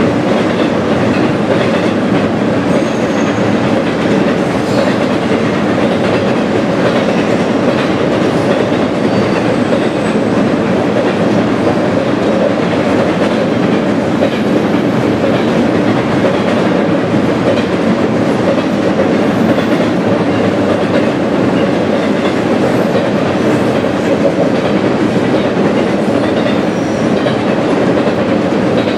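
Double-stack container cars of an intermodal freight train rolling steadily across a steel trestle.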